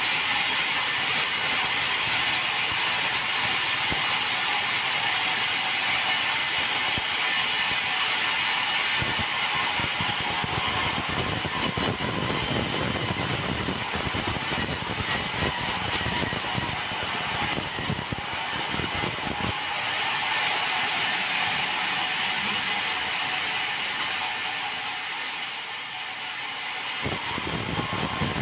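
Band sawmill running steadily, a continuous mechanical noise, with a change in the sound about twenty seconds in and again near the end.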